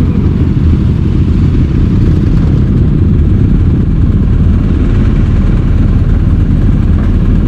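Loud, steady rumble of a motorcycle on the move, mostly wind buffeting the microphone with the engine underneath.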